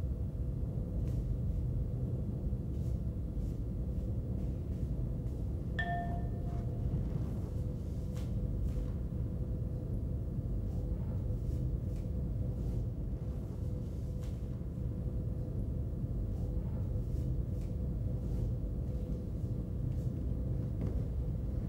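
Steady low hum with faint scattered ticks, and a single short ringing ding about six seconds in.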